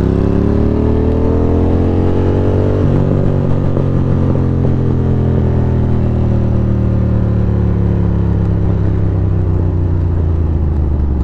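Ducati Monster 620's air-cooled V-twin engine under way. Its note rises as the bike accelerates, drops with an upshift about three seconds in, then slowly falls as the bike slows.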